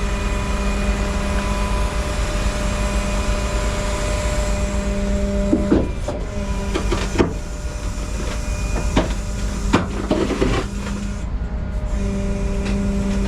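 Rollback tow truck's hydraulic bed system running with a steady, even hum while the bed lifts and shifts the car, with several sharp knocks and clunks in the middle stretch.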